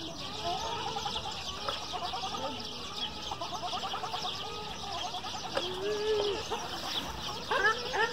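Songbirds chirping and twittering, many overlapping short calls. About seven and a half seconds in, a louder rapid chattering call starts, repeated several times a second.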